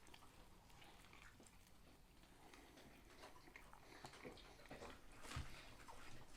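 Faint close-up chewing and mouth sounds of a person eating a loaded sub sandwich, soft wet clicks that pick up a little about four seconds in.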